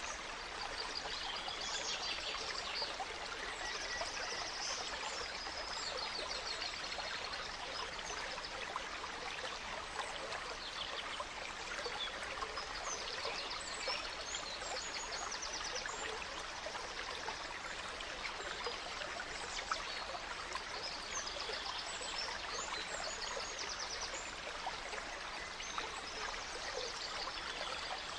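A small stream runs steadily, with songbirds singing short, quick trilled phrases on and off over it.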